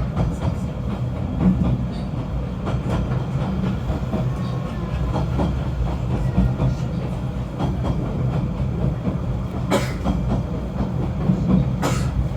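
Snowdon Mountain Railway rack-railway train running, a steady low rumble with small rattles and clicks throughout. Two sharper clicks come near the end.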